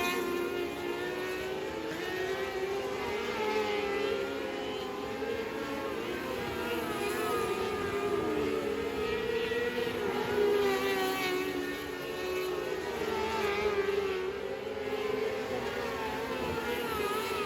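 Several race car engines running together, their pitches rising and falling again and again as they speed up and slow down.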